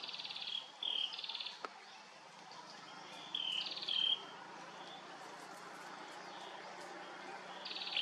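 A bird calling in three short bouts, near the start, around three to four seconds in, and at the very end. Each bout is harsh buzzy rattles mixed with short whistled notes, over faint steady forest background.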